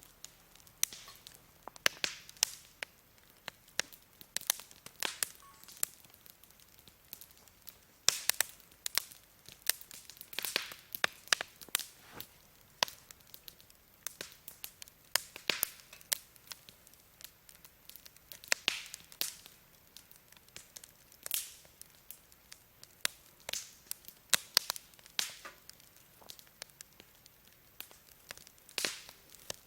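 Wood campfire crackling: irregular sharp pops and snaps, sometimes in quick clusters, over a faint steady hiss.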